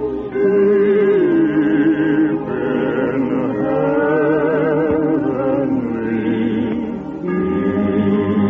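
A choir singing, with sustained notes and vibrato.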